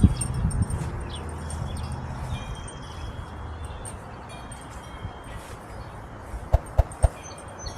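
Faint metallic ringing in a breeze, over wind rumbling on the microphone that eases after the first second or so. Three quick taps near the end.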